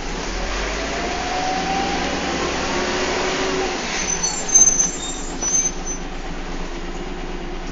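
A bus's engine and driveline running, heard from on board, with a whine that rises in pitch over the first two seconds. About four seconds in comes a short cluster of high-pitched squeaks and rattles.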